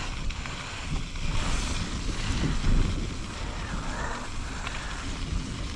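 Mountain bike tyres rolling over tacky, rain-wet dirt, with wind rushing over the microphone.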